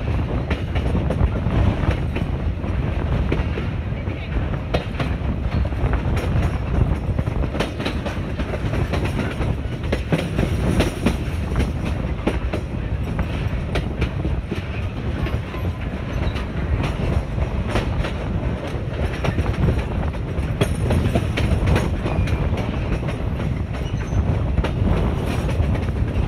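TAZARA passenger train running steadily, heard from an open carriage window: a continuous low rumble of the carriages with frequent clicks of the wheels over the rails.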